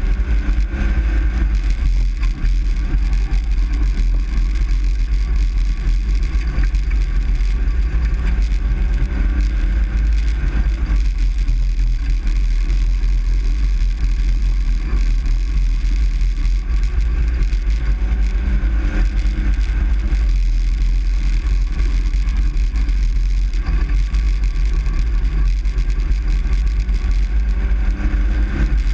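Engine and road noise of a truck heard from inside the cab while driving: a steady heavy low rumble, with the engine's pitch rising and falling slightly.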